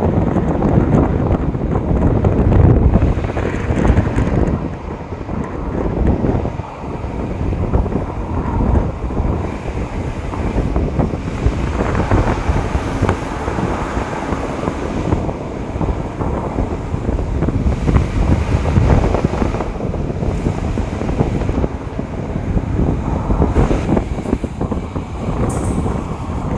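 Wind buffeting the microphone in uneven gusts, a rumbling noise that rises and falls throughout.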